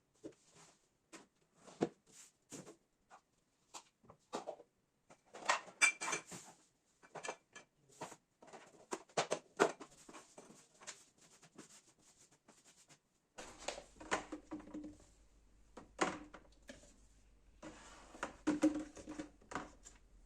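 Irregular clicks, taps and knocks of household things being handled and set down in a small room, such as drawers, containers and kitchenware. About 13 seconds in, a faint low hum comes in under them.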